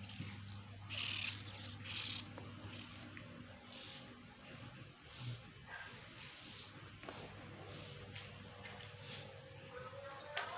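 Oriental magpie-robin (kacer) chicks chirping: short, high chirps about two a second, louder at first and growing fainter.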